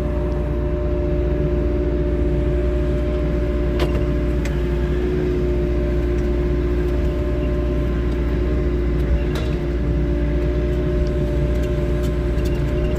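Wheeled excavator's diesel engine running steadily, a deep rumble with a constant hum, broken by a couple of faint clicks.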